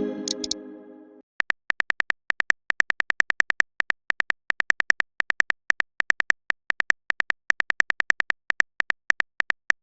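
A short chime that dies away over about a second, then rapid phone-keyboard typing clicks, several a second in uneven runs, as a chat message is typed out.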